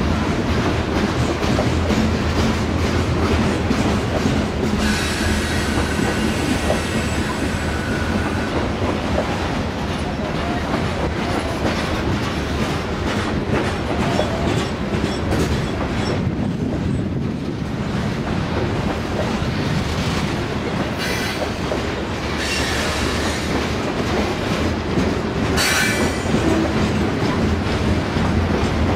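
Loaded coal hopper cars of a freight train rolling past with a steady rumble and rapid wheel clicks. The wheels squeal high-pitched, once for a few seconds about five seconds in and in several shorter bursts near the end.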